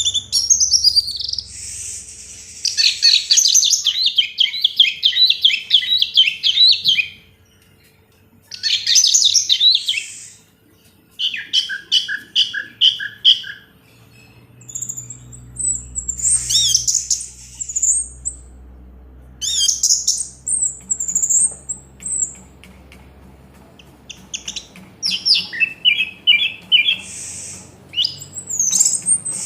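Orange-headed thrush (anis merah) singing: bursts of varied, rapid warbling phrases separated by short pauses.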